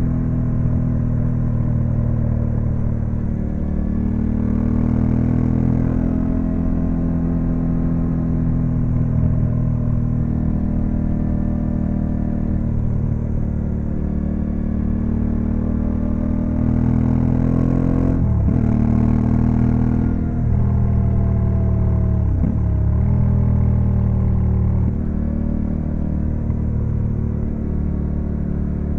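Honda Africa Twin CRF1100L's parallel-twin engine running under way, heard from on the bike. The note rises and falls with the throttle, and twice in the second half its pitch drops sharply and climbs back.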